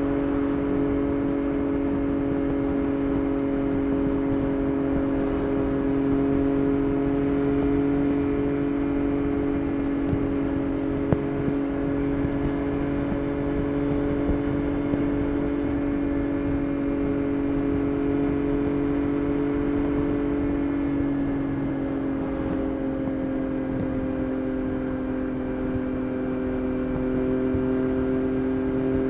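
Yamaha Tracer 9 GT+'s three-cylinder CP3 engine running at steady cruising revs through a Roadsitalia titanium exhaust. The engine note drops slightly about two-thirds of the way through, then holds steady again.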